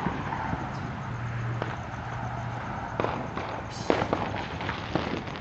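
Ground fireworks going off: a fountain firework's steady spark hiss, broken by several sharp cracks and pops, the loudest about four seconds in.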